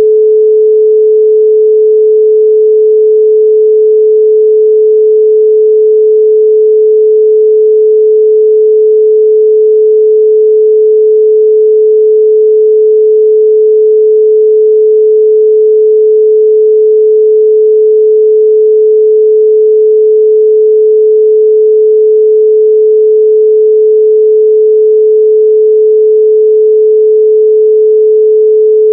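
A 432 Hz pure sine tone, held steady and loud without any change.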